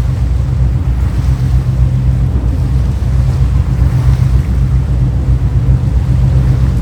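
Steady low rumble of a high-speed passenger boat's engines and rushing water, with wind on the microphone.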